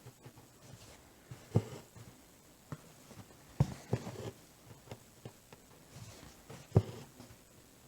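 Hand cross-stitching: a few soft, sharp taps as the needle is pushed and pulled through fabric held taut in an embroidery hoop, with light rustling between.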